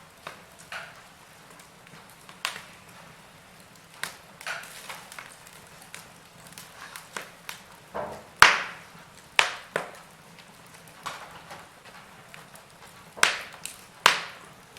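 Wood fire crackling in a fireplace: burning logs give irregular sharp pops and snaps over a low hiss. The loudest pop comes about eight and a half seconds in, with two more strong ones near the end.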